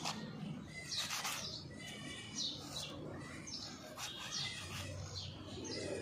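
Small birds chirping outdoors: short, high chirps repeating about once a second, over a faint low steady hum.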